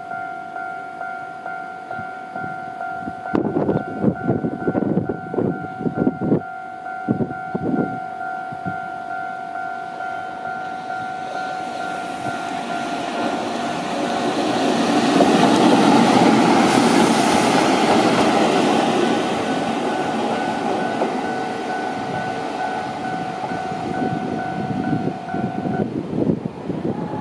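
A train passes: a quick run of wheel clatter over rail joints, then a rushing noise that swells, loudest a little past halfway, and slowly fades. A steady pulsing warning tone sounds throughout and cuts off about a second before the end.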